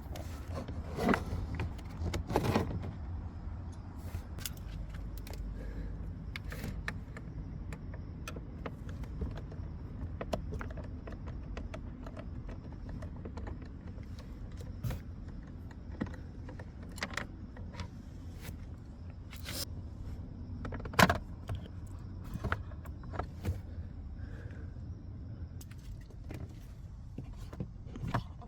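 Irregular light clicks, taps and knocks of hand tools and small parts being handled during work on a car's dashboard air-conditioning temperature actuator, over a steady low hum. The loudest knocks come a second or two in and again about twenty seconds in.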